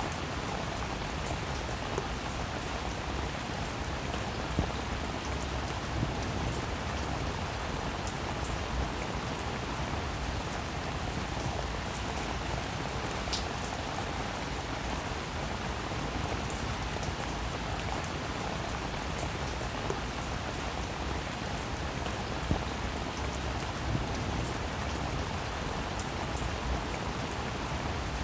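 Steady rain falling, a continuous hiss with scattered individual drops ticking, a few of them louder.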